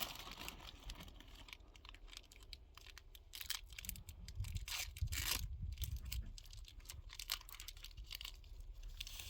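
Packaging being handled: irregular rustling and crinkling with scattered light taps and clicks, busiest about halfway through.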